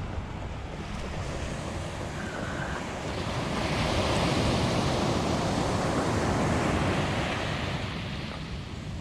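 Ocean surf breaking and washing up the beach, growing to its loudest a few seconds in, holding, then fading near the end, with wind buffeting the microphone in a low rumble.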